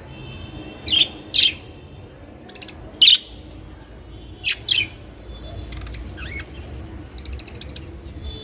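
Budgerigars chirping: a series of short, sharp calls, with bursts of quick rattling chatter in between.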